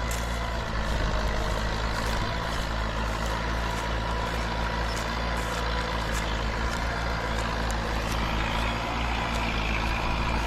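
Massey Ferguson 185 tractor's diesel engine running steadily under load while pulling a four-disc plough through fairly hard soil, with light irregular clicks over the engine.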